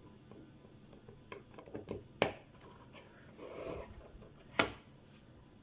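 Handling clicks as an optical audio cable and the equipment it connects to are worked by hand: a few light clicks, then two sharp clicks a little over two seconds apart, with a brief soft rustle between them.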